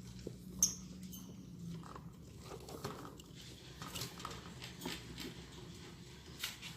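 Lovebirds in a wooden nest box: scattered scratching and tapping, with a short high squeak about half a second in.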